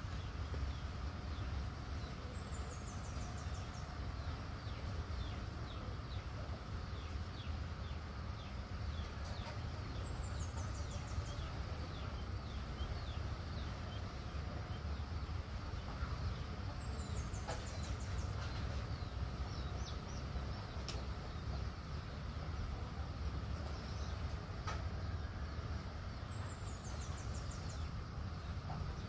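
Birds chirping and calling, with a high, quickly falling trill that comes back about every seven to eight seconds, over a steady low rumble.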